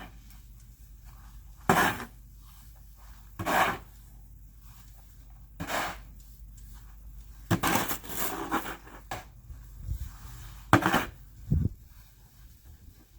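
Snow shovel scraping and knocking in short, separate strokes a second or two apart, with a quick run of them about halfway through and a dull thump near the end.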